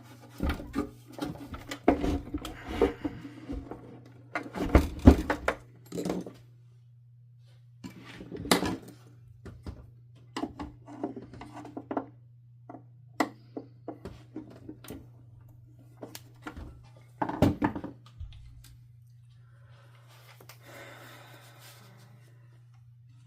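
Parts of a Hoover Dimension 1000 canister vacuum being handled during disassembly: scattered clicks, knocks and thunks of plastic housing and wiring, loudest in a cluster about five seconds in, with a soft rustling scrape near the end.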